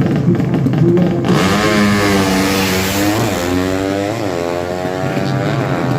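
Drag-racing motorcycle engine opening up hard about a second in, over a steady engine drone; its pitch climbs and drops back several times.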